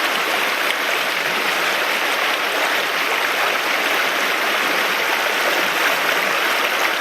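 Rushing water of a mountain stream, a steady, even noise without breaks.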